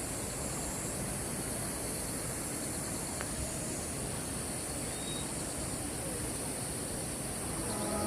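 Steady outdoor background noise with a constant high-pitched hiss over it and no distinct events, from location recording; music starts to come in near the end.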